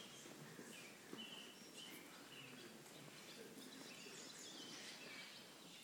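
Faint bird chirping, scattered short high calls over quiet room tone.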